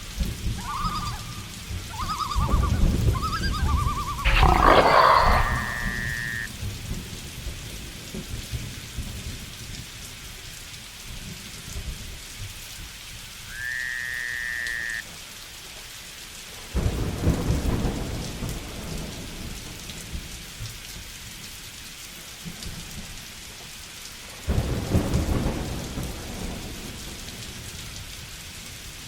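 Steady rain falling with thunder rumbling three times, loudest about four seconds in, then again about halfway and near the end. A few short, repeated animal calls sound over the rain in the first seconds, and brief high steady tones come twice.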